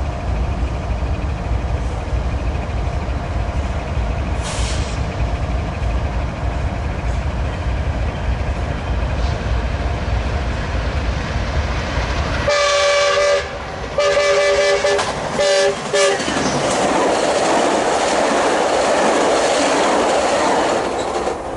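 Metrolink commuter train 1752 (F125 locomotive and cab car) coming up with a low rumble. It sounds its horn in a few blasts, two long and then a short one, then rushes past with loud wheel and rail noise.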